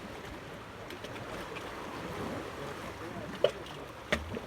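Steady wash of wind and water, with two sharp clicks or knocks near the end.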